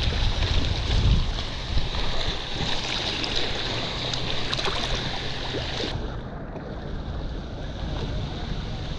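Wind buffeting the microphone over water lapping around a kayak, a steady rough rush with a low rumble; the hiss in the upper range drops away about six seconds in.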